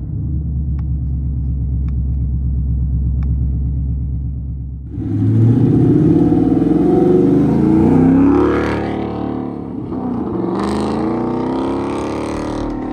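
A 2024 Ford Mustang GT's 5.0 V8 running through a Street Demon dual-mode performance exhaust, idling with a steady low rumble, then revved up and back down twice: once about five seconds in and again near ten seconds.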